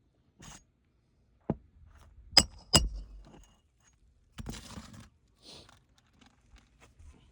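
Roofing tools knocking and scraping on asphalt shingles. There is a sharp knock about a second and a half in, then two louder ringing metallic knocks close together about a second later, with short scraping rustles between them.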